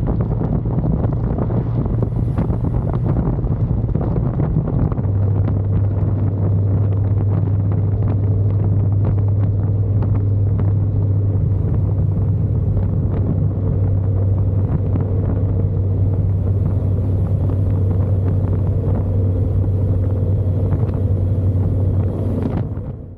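Motorcycle engine running steadily while riding, with wind buffeting the microphone. The engine note shifts about five seconds in, and the sound cuts off abruptly near the end.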